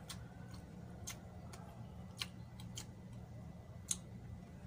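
A person chewing a mouthful of chicken adobo and rice, with several irregular sharp mouth smacks and clicks over a steady low hum.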